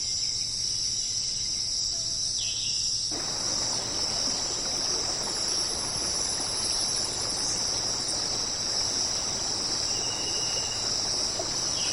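Insect chorus: a steady, high, unbroken trill. About three seconds in, a wider background hiss joins it.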